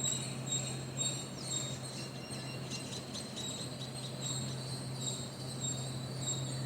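Insects trilling steadily and high, with a few short bird chirps about two seconds in, over a steady low hum.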